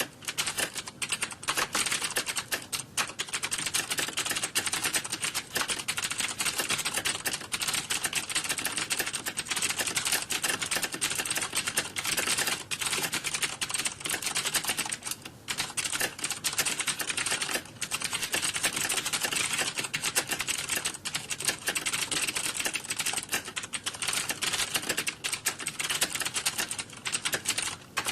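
Computer keyboard typing: rapid, continuous key clicks with only brief pauses, twice.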